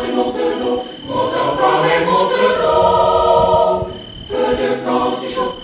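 A group of voices singing a campfire song together without accompaniment, in long held notes, with a short break about four seconds in before the singing picks up again.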